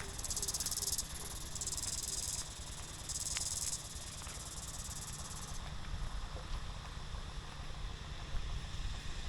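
Insects, crickets or cicadas, trilling in high-pitched bursts of under a second each, repeating about every one and a half seconds, then stopping about six seconds in. A steady low rumble runs underneath.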